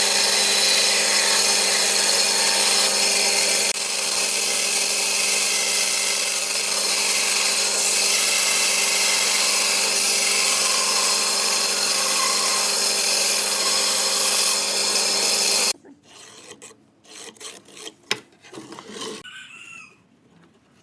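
Electric power tool running steadily while working wood, then cutting off suddenly about three-quarters of the way through. A few scattered knocks and clicks of handling follow.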